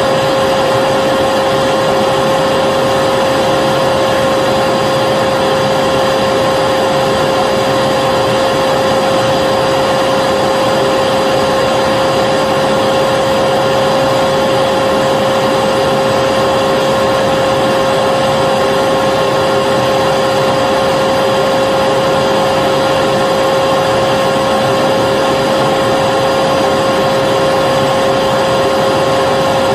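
Vacuum cleaner running steadily at constant speed: a loud, even motor whine with a strong steady hum tone over airflow noise, unchanging throughout.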